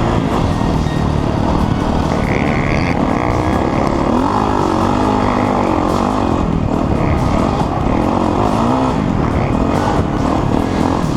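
Dirt bike engine under way, its pitch rising and falling with the throttle, over a steady rush of wind and riding noise.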